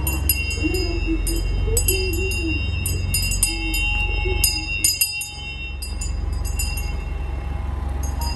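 Steady low rumble of a train running. Over it come quick, bright tinkling like small bells and a soft wavering tune, with a brief drop in level about five seconds in.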